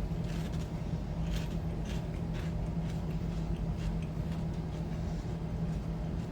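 Funyuns snack rings crunching, a few scattered crunches, over a steady low hum.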